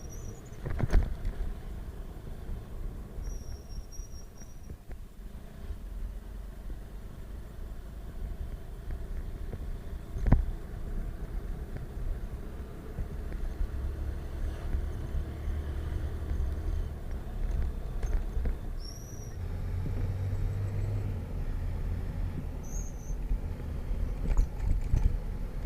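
Motorcycle on the move, a steady low engine and road rumble mixed with wind buffeting the microphone. There are two sharp knocks, about a second in and about ten seconds in, and a few short high chirps.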